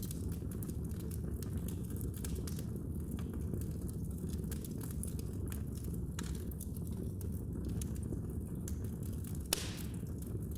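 Fire in a fireplace crackling: scattered sharp pops and snaps over a steady low rumble, with one louder pop near the end.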